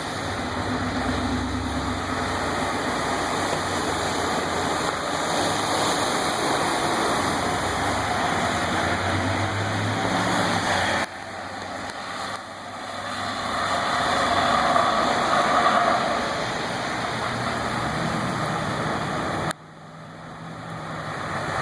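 A vehicle engine running under a steady rushing noise of traffic and water in a flooded street. The sound drops off abruptly about eleven seconds in and again near the end, then builds back up.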